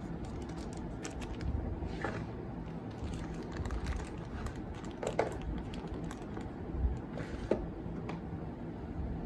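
Scattered light clicks and taps of small hard items being handled and set down, over a steady low hum.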